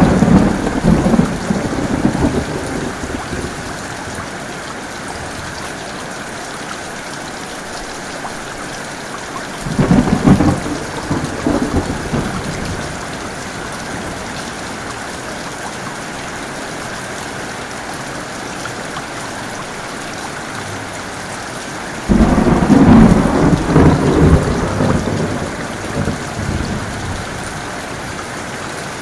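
Steady heavy rainfall with thunder rumbling three times: at the start, about ten seconds in, and a louder, longer peal about twenty-two seconds in that dies away over several seconds.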